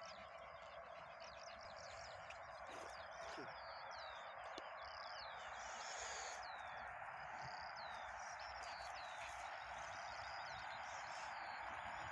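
Small birds chirping and calling again and again over a steady, even rushing noise that grows slowly louder.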